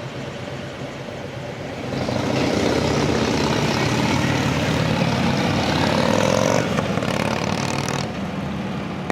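A motor vehicle's engine running, swelling louder about two seconds in and dropping back near the end as it passes.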